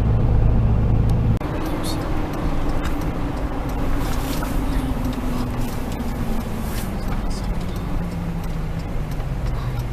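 A Chevy Duramax 6.6-litre V8 turbodiesel running during a drive, heard with road noise. The sound changes abruptly a little over a second in, after which the engine note falls slowly over several seconds.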